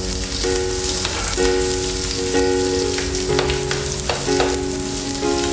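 Sliced onions sizzling in hot coconut oil in a frying pan, stirred with a slotted spatula that scrapes and taps the pan a few times. Background music with notes changing about once a second plays underneath.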